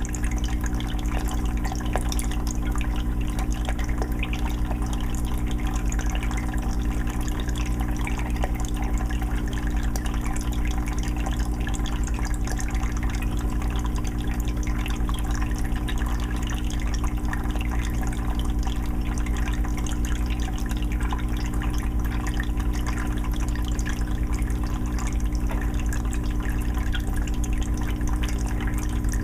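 Aquarium filter on a 20-gallon fish tank running: water trickling and splashing steadily into the tank over a low, steady hum from the filter's motor.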